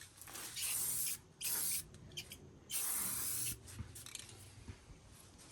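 Rust-Oleum aerosol spray-paint can hissing in short passes: three main bursts of about half a second to a second each, with a couple of brief puffs between them.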